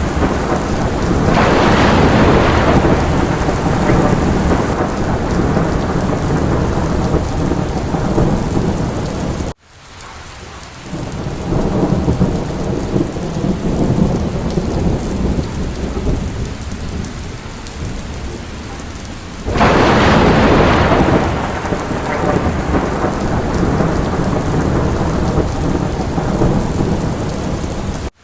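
Steady heavy rain with rumbles of thunder; two louder swells come about two seconds in and about twenty seconds in. About ten seconds in the sound cuts out abruptly and builds back up, a seam in the looped recording.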